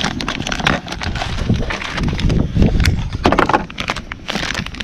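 Handling noise from a new rear main seal and its plastic packaging: a rapid, irregular run of clicks, crinkling rustles and light knocks.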